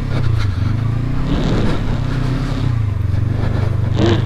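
Motorcycle engine running and revving up and down as the bike struggles for traction in snow while being pushed.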